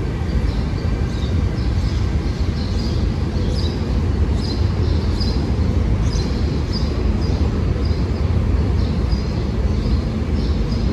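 Steady low rumble of SEPTA regional rail trains moving along the station platforms, with small birds chirping over it, about two short chirps a second.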